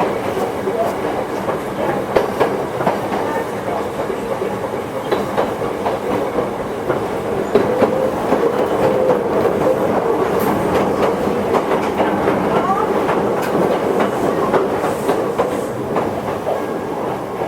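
Toyohashi Railway 1800-series electric train, a former Tokyu car, running along the line: a steady rumble of wheels on rail with scattered clicks over rail joints. A brief rising whine comes about two-thirds of the way through.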